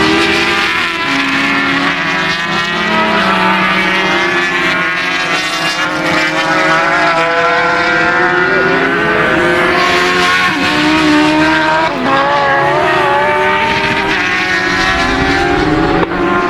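Several racing motorcycle engines running hard together, their overlapping notes rising and falling as they rev.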